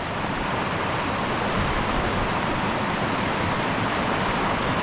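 Waterfall and fast water cascading steadily down between boulders, a continuous rush of white water.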